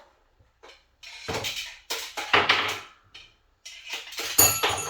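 Metal clattering and clinking from handling gear, in several short spells, with a bright ringing clink near the end.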